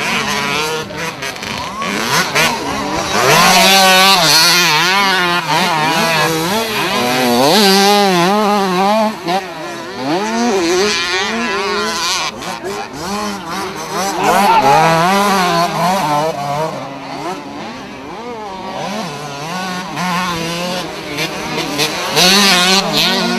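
Several 65 cc two-stroke minicross motorcycles racing, their engines revving up and down in quick rises and falls of pitch, loudest twice as bikes pass close.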